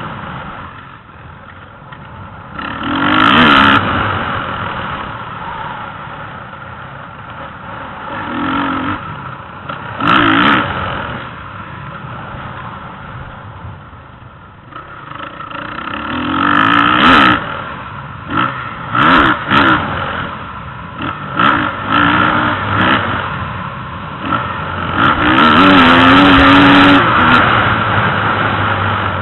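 Motocross bike engines revving hard, the pitch rising and falling with repeated bursts of throttle, the loudest surges near the end.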